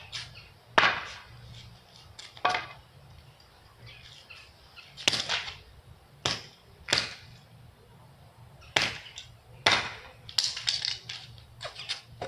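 A hockey stick striking a toy race car over and over: about ten sharp whacks, irregularly spaced and roughly a second apart, with a quicker flurry near the end.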